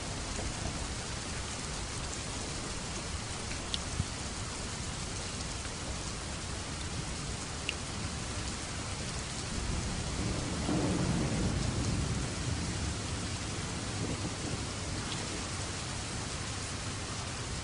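Steady heavy rain with a few scattered drop ticks, and a low roll of thunder swelling up about ten seconds in and dying away over roughly three seconds.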